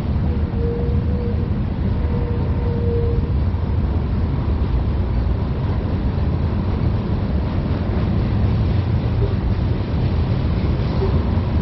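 Freight train cars rolling past, covered hoppers and boxcars on a BNSF manifest train: a steady low rumble of steel wheels on the rails.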